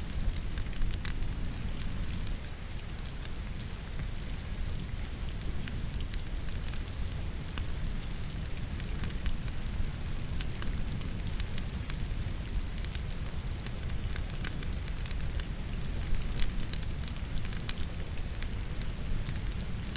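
Wood logs burning in a fireplace, crackling with frequent sharp pops, over a steady low rumble and the hiss of rain.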